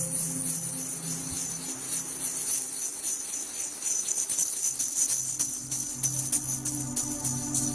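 A hand rattle shaken continuously in quick, fine shakes, a bright, dense rattling. Under it a low, steady music drone drops away in the middle and comes back about two-thirds of the way through.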